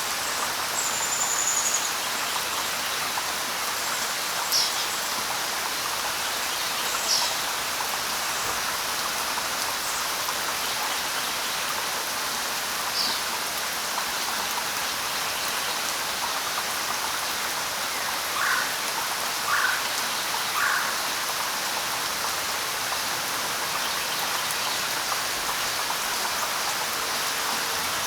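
Steady light rain pattering on leaves, with a few scattered short bird calls: a high whistle near the start, single chirps now and then, and three quick lower calls about a second apart after the middle.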